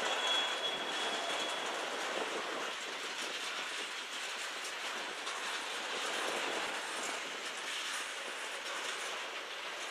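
Freight cars of a manifest train rolling past, their steel wheels clattering steadily over the rails. A short high-pitched wheel squeal sounds in the first second and a half.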